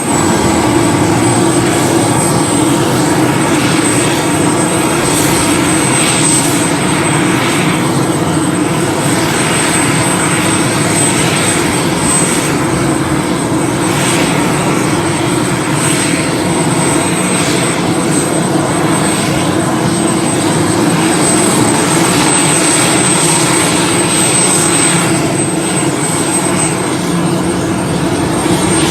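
Jet fighter's single turbofan engine, the F-2's F110, running steadily on the ground during an engine run-up. It is a loud, even rush of noise with a constant high-pitched turbine whine over it.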